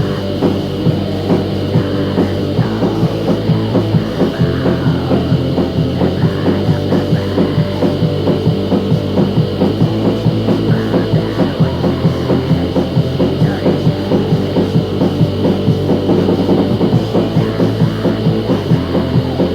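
Rock music with a steady, fast drum beat and a bass line that moves to a new note every few seconds.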